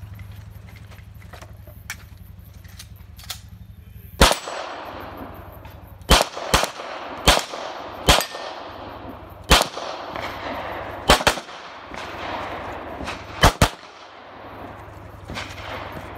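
9mm CZ Shadow 2 pistol fired about a dozen times while running an IPSC stage: single shots and quick pairs at an uneven pace, starting about four seconds in.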